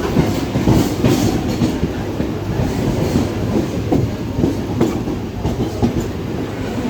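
Mumbai suburban local electric train running on the rails: a steady low rumble with occasional sharp clicks of the wheels over rail joints.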